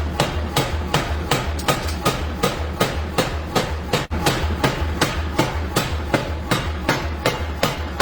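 Hammer striking steel in quick, even blows, about four a second, while a knife blade is being forged. The blows break off briefly about four seconds in.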